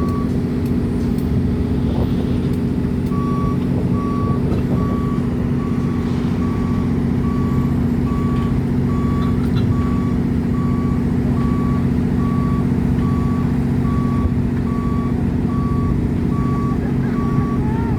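Heavy construction machine's diesel engine running steadily while its travel alarm beeps about once a second, with a short pause in the beeping near the start.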